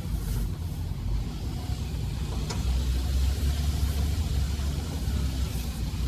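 Off-road vehicle's engine running steadily at low speed, a low rumble, with a single sharp click about two and a half seconds in.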